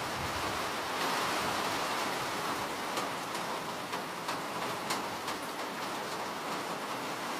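Steady rain, an even hiss, with a handful of single drops ticking sharply in the middle.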